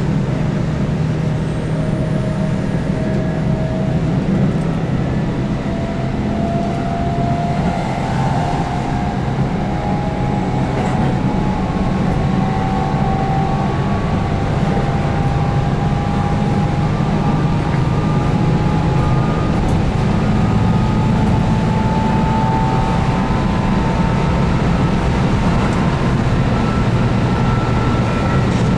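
Keihan 8000 series train running, its DC traction motors (field-added excitation control) whining with several tones that climb slowly in pitch as the train gathers speed, over a steady rumble of the running gear.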